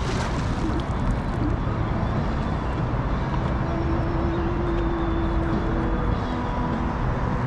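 Steady wind rumble on the camera microphone, heaviest in the low end, with a faint steady hum in the middle.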